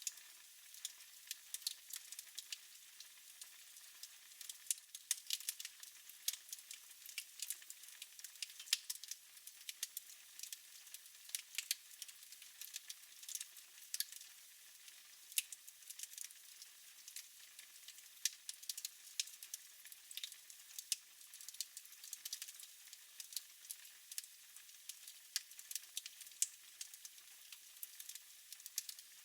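Fire crackling in a fireplace: frequent irregular sharp pops and snaps over a soft steady hiss.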